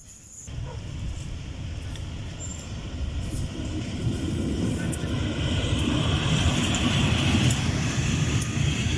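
A train rumbling as it approaches, growing steadily louder and peaking near the end.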